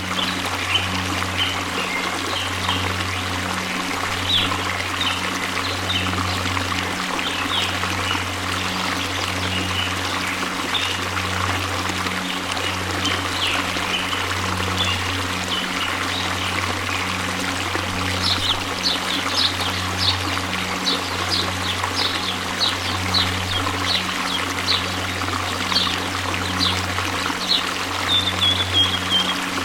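Waterfall rushing steadily over a low steady hum, with birds chirping in short quick calls that become busier over the last ten seconds or so.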